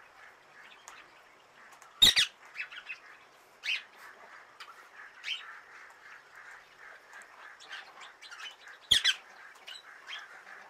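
Ring-necked (rose-ringed) parakeet giving short, sharp squawking calls. The two loudest come about two seconds in and near the end, with a few quieter calls between. Faint steady bird chirping runs underneath.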